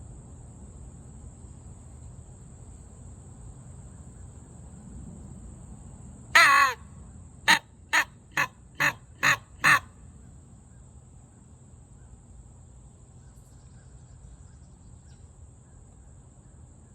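Primos mouth-blown crow call sounding one long caw falling in pitch, then six short, quick caws at about two a second.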